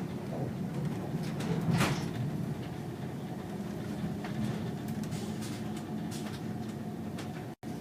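Steady low rumble of a moving vehicle, with scattered clicks and knocks and a louder swell about two seconds in; the sound cuts out for an instant near the end.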